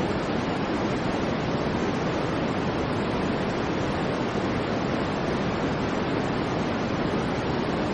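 Continuous generated white noise: a steady, even hiss that does not change in level or character.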